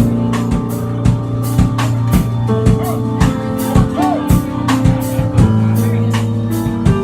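Live rock trio playing an instrumental passage: a drum kit keeping a steady beat, about two hits a second, under long held bass notes that step to new pitches, with electric guitar bends on top.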